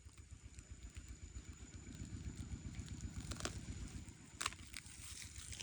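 A small engine running low and steady, with two sharp clicks about midway.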